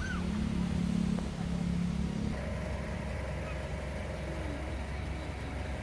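A motor vehicle's engine idling: a steady low hum that changes note about two seconds in.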